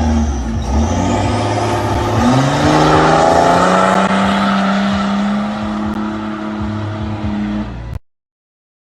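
Off-road vehicle engine revving hard, its pitch climbing about two seconds in and then holding high under load, with rough noise over it. It cuts off suddenly about eight seconds in.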